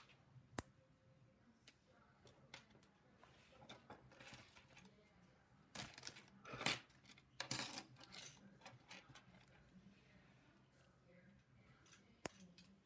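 Plastic LEGO bricks being handled and snapped together: scattered sharp clicks, with a stretch of rustling and rattling of loose pieces about six to eight seconds in.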